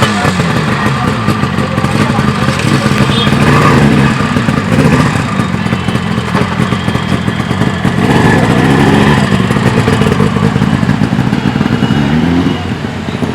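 Yamaha RD350 two-stroke parallel-twin engine running loud through a 2-into-1 exhaust, its revs rising and falling several times.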